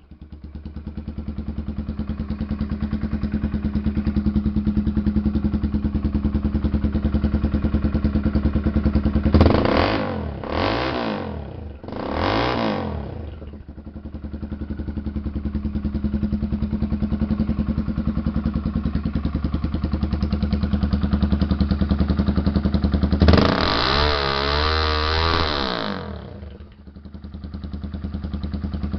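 Honda Twister 250 single-cylinder four-stroke motorcycle engine running loud at idle. It is revved in three quick blips about ten seconds in, then in one longer rev held for a couple of seconds near the end before dropping back to idle.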